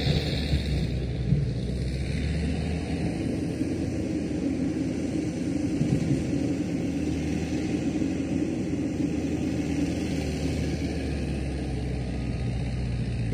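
Diesel engine of heavy earthmoving machinery running steadily, a low rumble, with a couple of short knocks about a second in.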